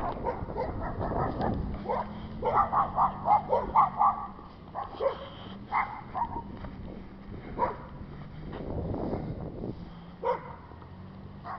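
Animal calls, short and harsh, coming in quick runs of several at a time, loudest about three seconds in, over a low rumble of wind.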